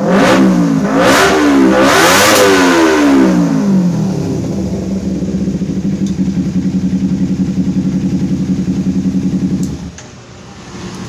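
Engine exhaust revved in about three quick blips, then settling into a steady idle. The sound drops away abruptly near the end.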